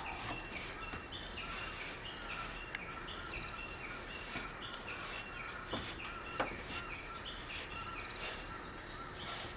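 Small birds chirping in quick repeated short notes over steady outdoor background noise, with a few faint clicks.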